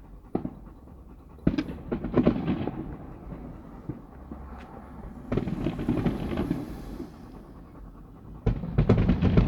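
Aerial fireworks going off. A sharp bang comes first, then a cluster of bangs and crackling about a second and a half in, a longer crackling spell in the middle, and another burst of bangs near the end.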